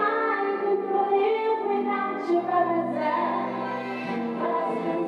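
Women singing over a live band's backing, with long held notes that glide between pitches: a stage show's rock-pop number.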